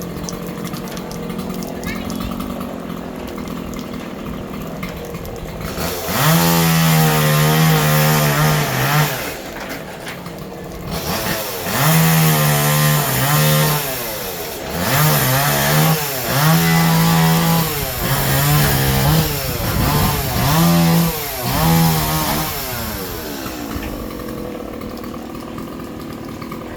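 Chainsaw cutting up a fallen tree. It runs low for the first six seconds or so, then is revved hard in about seven bursts of one to three seconds, easing off between them, and drops back low near the end.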